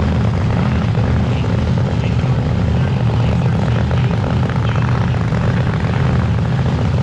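Engine idling steadily with a low, even rumble that holds one pitch throughout.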